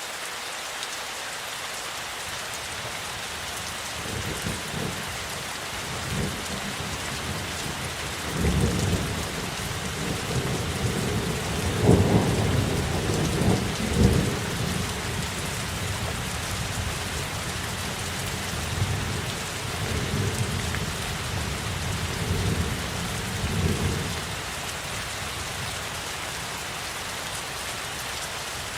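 Steady rain with a long roll of thunder. The rumble builds from about four seconds in, is loudest in the middle with two sharper peaks, and dies away near the end while the rain keeps falling.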